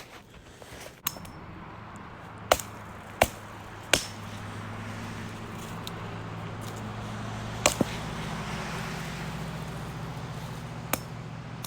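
Small axe striking dead branches off a felled beetle-killed tree: about seven sharp, cracking chops at irregular intervals. Under them runs a steady low, engine-like hum.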